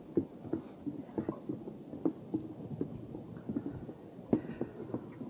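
Footsteps of hikers walking along a forest trail: a steady run of soft thuds, about two or three a second.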